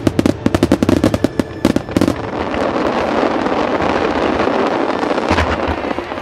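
Starmine fireworks bursting in quick volleys: sharp cracks, several a second, for about two seconds, then a dense continuous crackle of glittering stars, with one heavier boom near the end.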